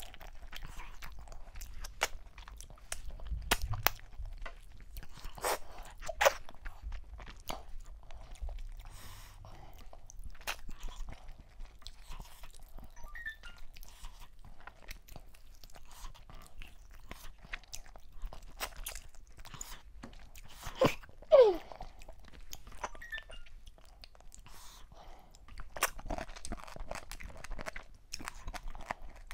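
Close-miked eating sounds: wet chewing, lip-smacking and short clicks as turkey meat is bitten and pulled from the bone by hand. A loud, short mouth sound falling in pitch stands out a little past two-thirds of the way through.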